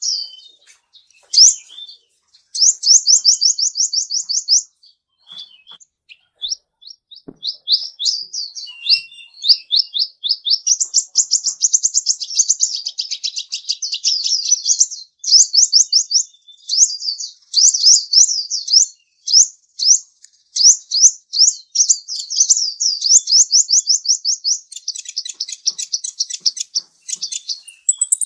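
A bird singing a long, high-pitched song of rapid trilled note series, with a short pause a few seconds in before the song runs on almost without a break.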